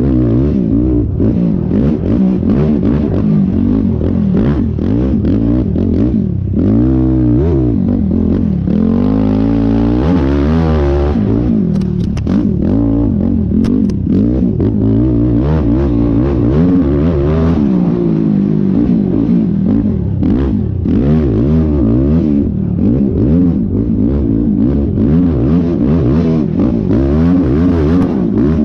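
Yamaha YFZ450R sport quad's single-cylinder four-stroke engine revving hard and continually, pitch climbing and dropping with throttle and gear changes, over a rough track. Frequent knocks and clatter from the quad pounding over ruts and whoops.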